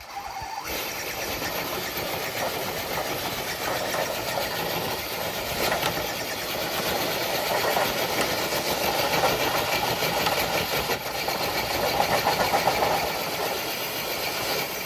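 Radio-controlled scale truck's motor and drivetrain running steadily under load as it drags a weighted sled, with the sled scraping along.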